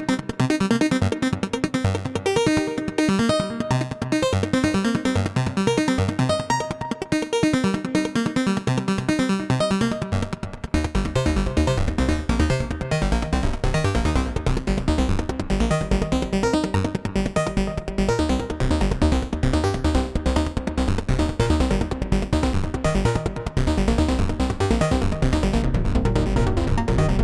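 Modular synthesizer sequence: a Braids-style macro oscillator playing a stream of short, rapid enveloped notes, gated in volume and run through a Mimeophon delay. About ten seconds in, a deep bass layer comes in and the sound turns fuller.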